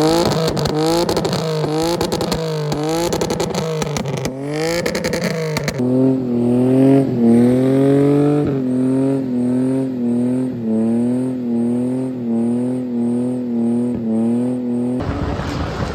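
Straight-piped BMW E30 exhaust as the engine is revved over and over, the pitch rising and falling, with a dense crackle of pops and bangs on each lift-off. About six seconds in it switches abruptly to a car engine held at high revs with small rises and falls in pitch.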